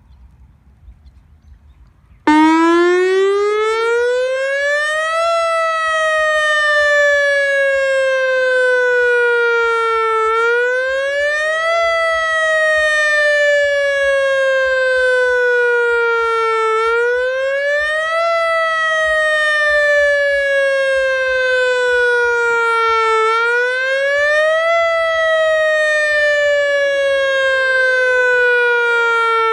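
Whelen WS-1000 outdoor warning siren switching on suddenly about two seconds in for its test. It sounds a loud, pitched wail that climbs quickly, then slides slowly down over about five seconds, again and again.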